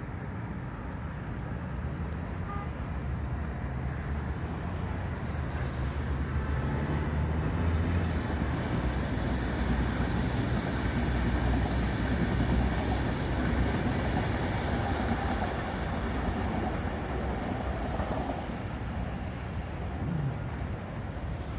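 Vivalto double-deck commuter train passing on the line, its rumble and wheel-on-rail noise growing to a peak near the middle, then slowly fading as it draws away.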